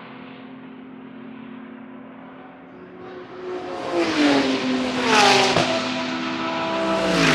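GT3 race cars passing at speed. A faint engine fades away at first. A car then approaches and passes about five seconds in, its engine note dropping in pitch as it goes by, and a second car passes the same way near the end.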